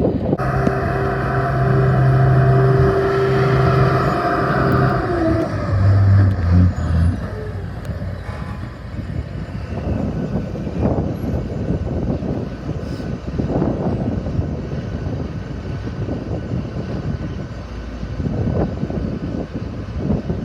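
A steady motor hum that drops and cuts out about six seconds in, followed by gusts of wind buffeting the microphone.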